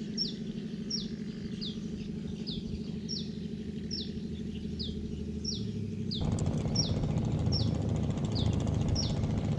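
A bird calling over and over, a short high chirp that falls in pitch, repeated evenly about every half second, over a steady low rumble that gets louder about six seconds in.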